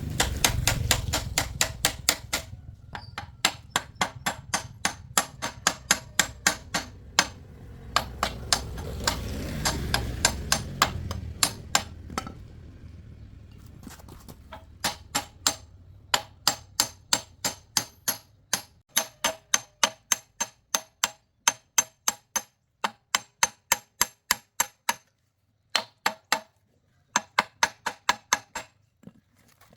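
Hammer blows on metal, at roughly two to three a second, each one ringing. The blows come in runs with short pauses between them. A low rumble underneath fades out about two-thirds of the way through.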